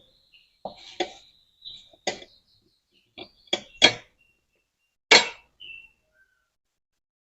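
A series of short knocks and clinks, about eight in all, the loudest about five seconds in: small parts of a dismantled freezer fan motor being handled and set down.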